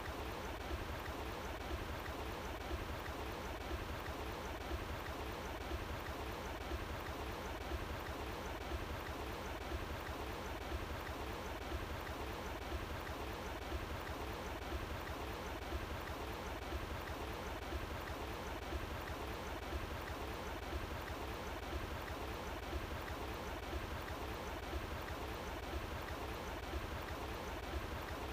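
Running water flowing steadily, an even rushing with a low rumble underneath.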